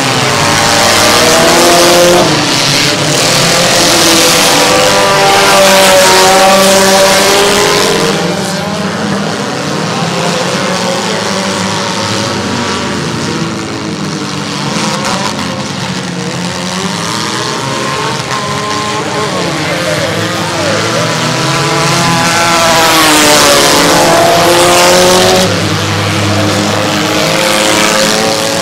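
Engines of several small demolition derby cars revving up and falling away over and over as the cars charge and ram around the track, with tire noise on the dirt. It is loudest for the first several seconds and again a little past twenty seconds in.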